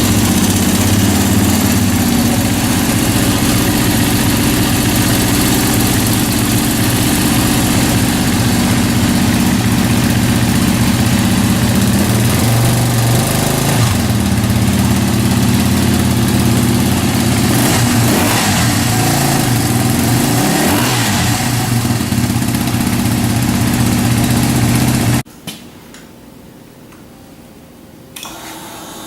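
Yamaha WR250R's 250 cc single-cylinder engine running through its exhaust, mostly at a steady idle, revved up and down several times in the middle. It then shuts off suddenly.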